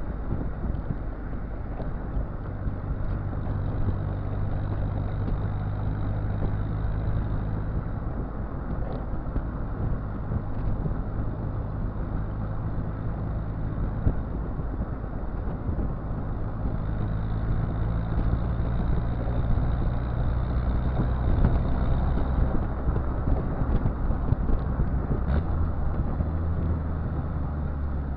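Exhaust of a Citroën Visa's swapped XUD7TE 1.7-litre turbo diesel engine, running steadily with a low, even note, getting a little louder about two-thirds of the way through.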